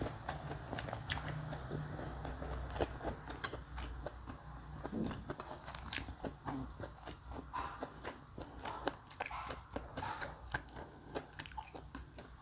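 Close-up mouth sounds of someone chewing soft food from a soup (tofu skin and meat): a scattered run of short wet clicks and smacks. A metal spoon scoops in a stainless steel bowl.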